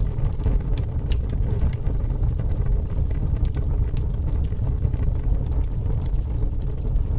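Fire burning with a steady low roar and frequent, irregular sharp crackles and pops.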